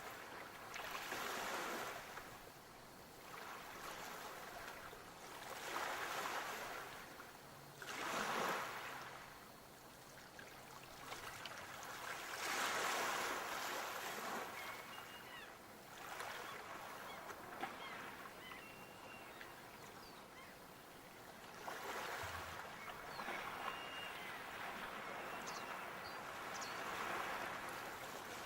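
Sea waves breaking and washing back in repeated surges every few seconds, the strongest swells about 8 and 13 seconds in.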